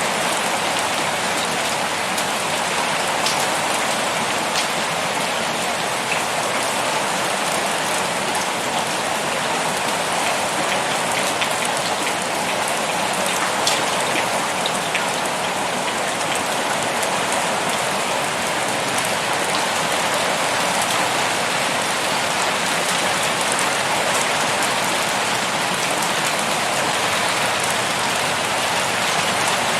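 Steady pouring rain, an even hiss with scattered drops ticking on a surface.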